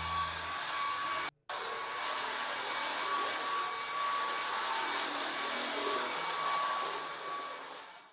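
Vacuum cleaner running steadily with a motor whine. The sound cuts out briefly about a second in and fades away near the end.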